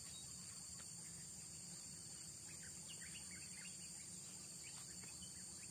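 Steady high-pitched drone of an insect chorus, with a few faint short ticks and rustles about three and five seconds in.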